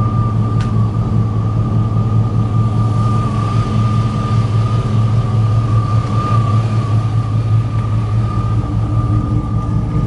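A vehicle engine running steadily, with a constant high-pitched whine over its low hum.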